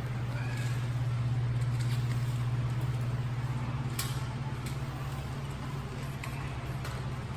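A steady low mechanical hum, with a single sharp click about four seconds in.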